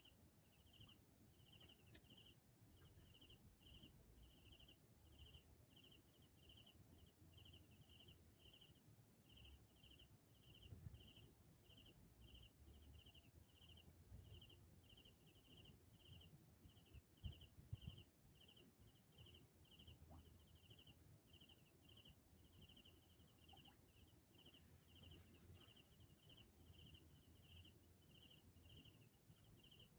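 Faint, steady chirping of an insect: a short high chirp repeated two to three times a second without a break. A few soft low thumps come in around the middle.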